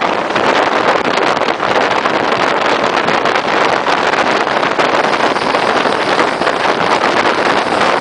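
Passenger train running at speed, heard from an open carriage window: a loud, steady rush of wind over the microphone mixed with the running noise of the wheels on the track.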